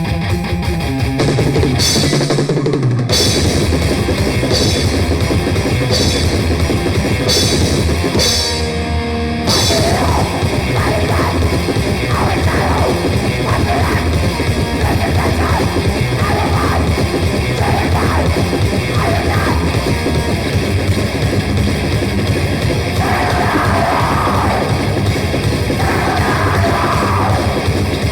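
Grindcore recording: distorted guitar and bass over drums. About nine and a half seconds in, the band comes in at full density and keeps pounding.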